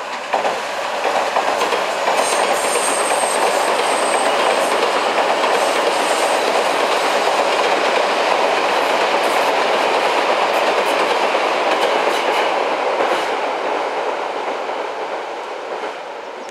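Odakyu electric train crossing a railway bridge: a steady, loud rumble of wheels on rail with rail-joint clicks. A faint high whine comes in between about two and four seconds in, and the sound fades away over the last few seconds as the train passes.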